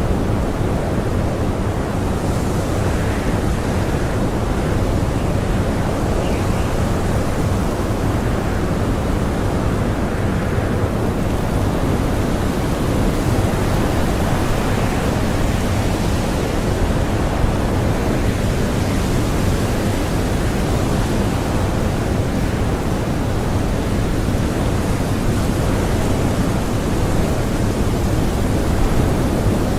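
Strong blizzard wind blowing steadily, a dense rushing noise that swells in gusts now and then.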